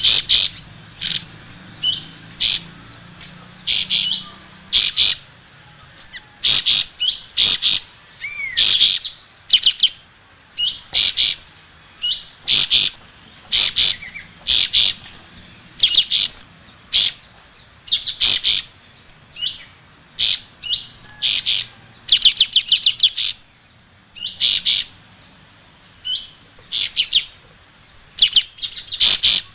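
Sooty-headed bulbul (kapas tembak) singing: short, sharp chirping phrases repeated about once a second, with a quick rapid-fire run of notes near the middle.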